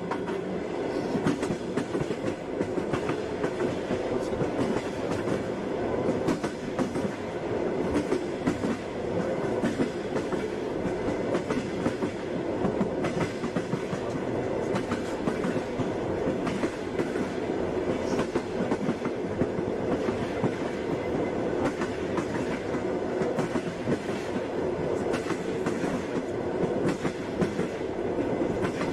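Passenger train running steadily: a continuous rumble with the wheels clacking over the rail joints.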